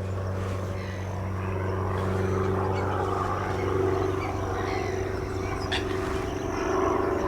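Propeller aircraft flying over, a steady low engine drone that grows louder over the first two seconds and then holds.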